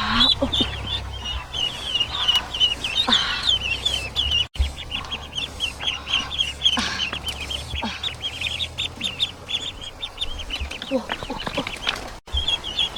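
Birds calling in a constant stream of rapid, short, high-pitched chirps over a low hum. The sound cuts out briefly twice.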